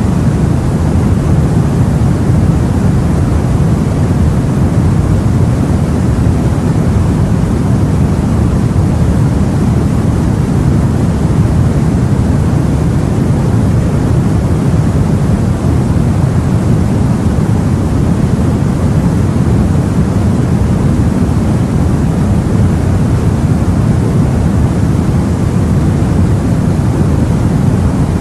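Steady deep rumbling sea and wind noise as heard aboard a boat, even throughout with no separate wave surges.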